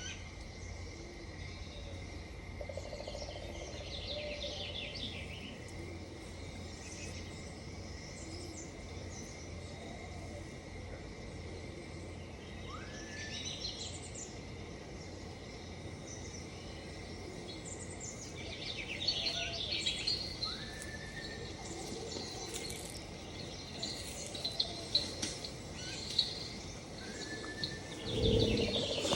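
Outdoor ambience of birds chirping and calling on and off, including a few short rising calls, over a steady high insect drone and a low rumble. A louder low thump comes near the end.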